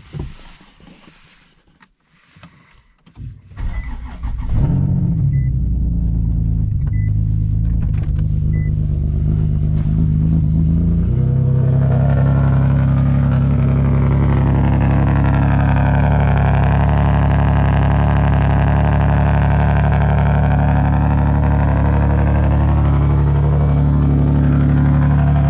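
Single-turbo Nissan 370Z's VQ37VHR V6 cold-starting: it catches about four seconds in with a short rev flare, then runs at a loud, steady high cold idle that steps down in pitch about eleven seconds in. A few soft beeps sound just after it starts.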